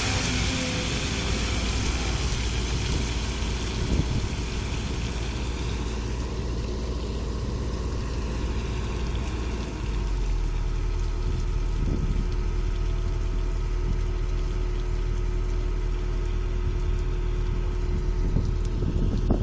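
Sumitomo excavator's diesel engine running steadily, its low note changing about halfway through.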